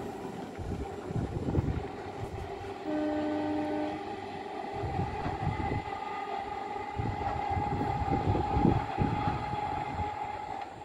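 Indian Railways EMU local train running away along the track, its rumble fading into the distance under a steady high hum. The horn sounds once, about three seconds in, for about a second.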